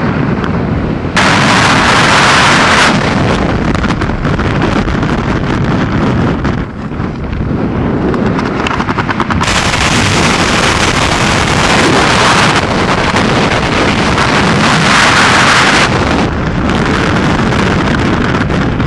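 Heavy wind buffeting the microphone during a skydive, loud throughout. It turns harsher and hissier from about one to three seconds in, and again for a long stretch from about halfway.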